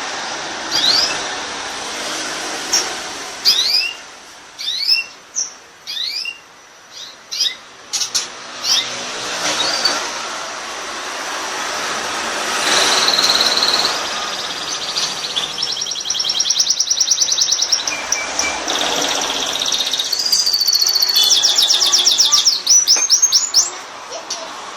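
Domestic canary singing. For the first several seconds it gives separate sweeping chirps, then from about halfway it runs into a continuous song of fast trills and rolls that grows busier near the end.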